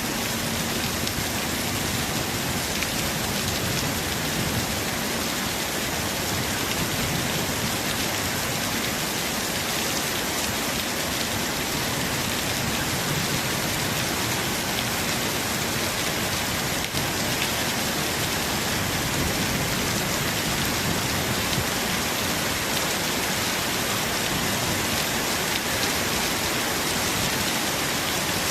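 Steady, heavy tropical rain falling on surfaces, an even unbroken hiss of many drops.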